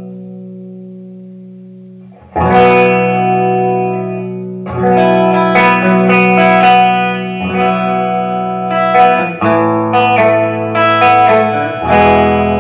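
Guitar playing a song's intro: a held chord fades out, then chords are struck every two to three seconds and left to ring, with single picked notes between them.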